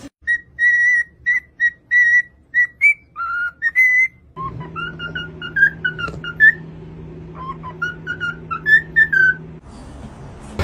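A parrot whistling a run of short, clear notes. About four seconds in, a second stretch of choppier whistled notes starts over a steady low hum.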